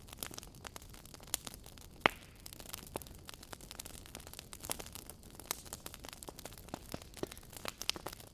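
Wood fire crackling in a fireplace: irregular sharp pops and snaps over a faint steady hiss, with one louder pop about two seconds in.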